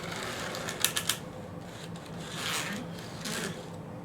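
Hands handling a model locomotive and its small test track: a quick run of sharp clicks about a second in, then rubbing and scraping.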